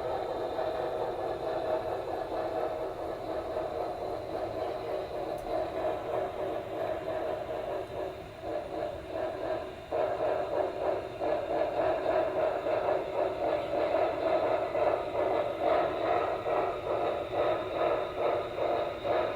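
Onboard sound decoder of an HO scale Broadway Limited Imports Norfolk & Western Y6b model steam locomotive playing running sounds through its small speaker, with a repeating chuff pulse. It gets louder about halfway through.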